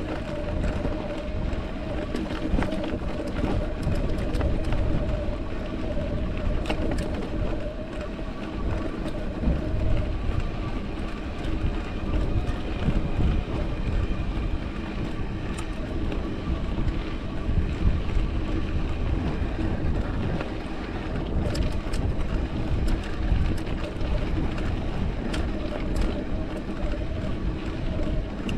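Mountain bike rolling over a rocky trail: steady tyre and wind noise with scattered knocks and rattles from the bike over the rocks.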